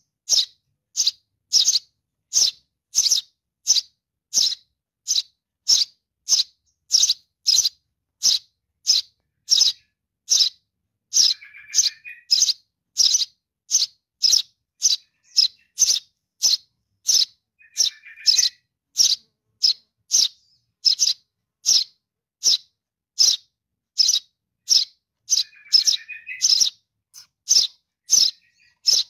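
Sparrow chick calling for its parent: short, sharp, high chirps repeated steadily, about two a second. A lower chattering call breaks in three times.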